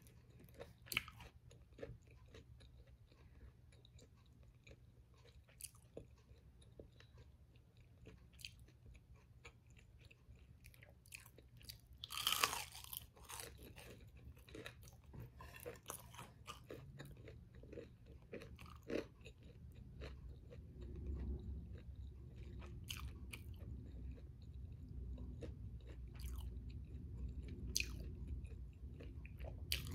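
Chewing and crunching of crisp fried battered tempura, with small crackling crunches throughout and one louder crunch about twelve seconds in.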